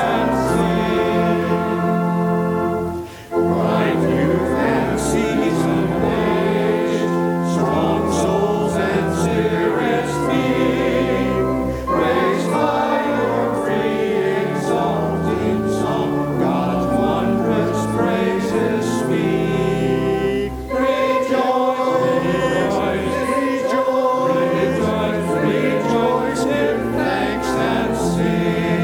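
A hymn sung by many voices together in held chords, with short breaths between phrases, the clearest about three seconds in.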